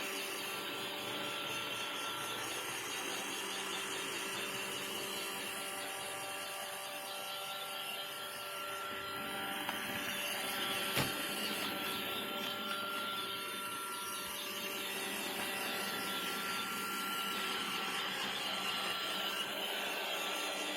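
Roomba robot vacuum running steadily, a motor hum with a thin whine over it. One short sharp knock about eleven seconds in.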